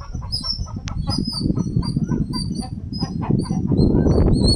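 Birds chirping, many short high-pitched notes in quick succession, over a low rushing noise that grows louder near the end.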